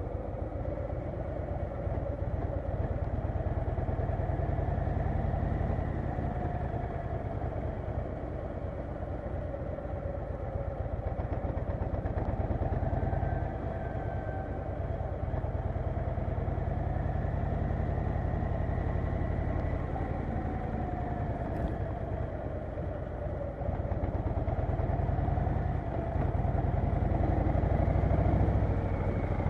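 Harley-Davidson Low Rider S V-twin engine running under way, its exhaust pulsing as the engine speed rises and falls with the throttle.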